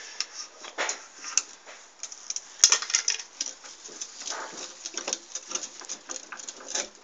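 Petrol and oil burning inside a two-stroke motorcycle exhaust pipe, crackling and popping irregularly, with one sharper crack about two and a half seconds in.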